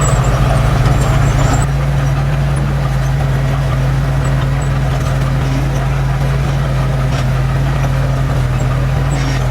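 Heavy-equipment diesel engine running steadily with a low, even hum, a little louder for the first second and a half and then settling to a constant level.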